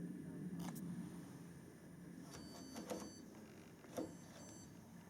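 Washing machine control panel being set: a few clicks of buttons or the programme dial, with short high electronic beeps about two and four seconds in, over a low steady hum.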